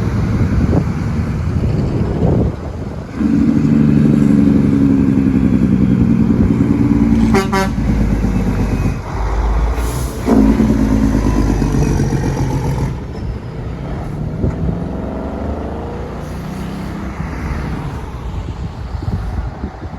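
Straight-piped Western Star semi truck's Jake brake (engine compression brake) firing: a loud, rapid, pulsing bark from about 3 s to 7.5 s, and a second shorter burst about 10 seconds in, after which the engine runs quieter.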